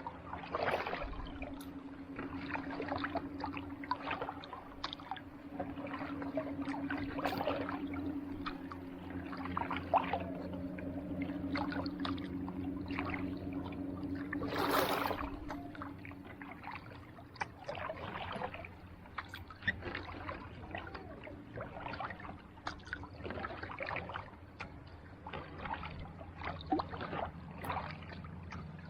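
Kayak paddle strokes dipping and splashing in calm sea water, repeated at an uneven pace, with one louder splash about halfway through. A steady low hum runs under the first half and then fades.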